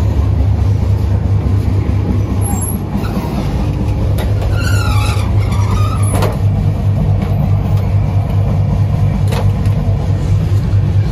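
Steady low rumble of a moving express train heard from inside a 2AC coach, with a brief wavering whine about four seconds in and a couple of sharp knocks later on.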